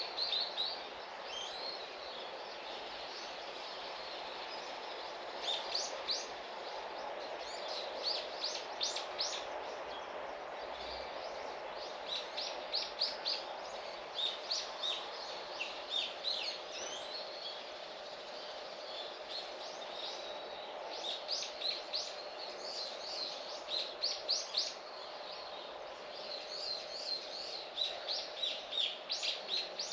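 Small birds chirping in quick runs of short, high notes, repeated throughout, over a steady low background hum.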